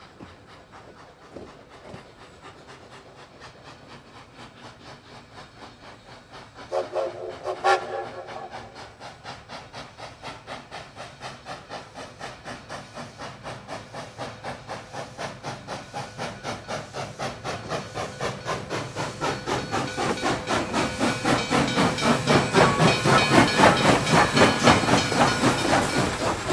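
A steam locomotive gives a short chime whistle, then its exhaust beats at about four a second, growing steadily louder as it approaches.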